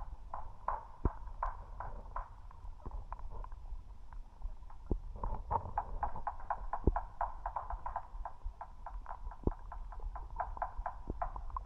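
Underwater river sound picked up by an action camera in its waterproof housing: a steady low rumble with many irregular clicks and ticks, growing busier about halfway through.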